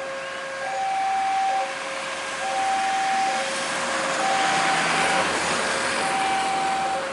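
Railway level-crossing alarm sounding, an electronic tone alternating high and low about every second. A rushing, rumbling train noise swells over it about midway through.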